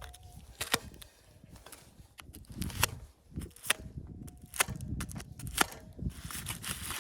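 A series of sharp, irregular knocks and clicks, about five strong ones, over a low rumbling background.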